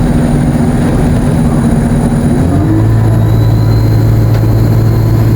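ADL Enviro 200 single-deck bus under way: the diesel engine and Allison automatic gearbox run with a high turbo whine. About halfway through, the engine note rises and then settles onto a new steady, lower note as the gearbox changes gear, and the whine steps up in pitch.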